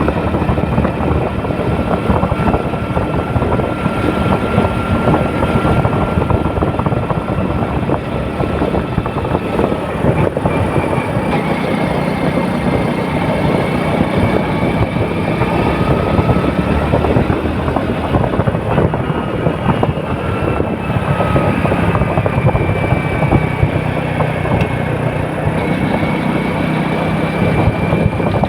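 Steady vehicle running noise, engine and road rumble with a faint whine that drifts slightly in pitch.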